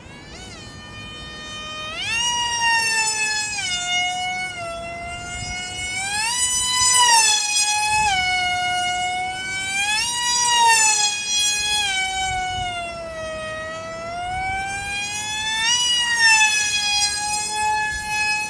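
Electric brushless motor of an RC model Su-30, a 2217 3000 kV motor, whining in flight. The pitch rises and falls with the throttle and as the plane passes, with loud swells about 7, 10 and 16 seconds in.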